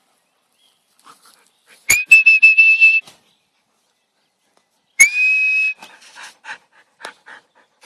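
Two loud whistle calls, each a quick upward swoop into a held high note lasting about a second, used to recall a dog that has run off.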